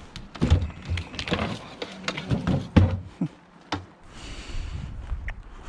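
A run of loud knocks and thuds from a scrap fridge being handled, followed by a short hiss about four seconds in.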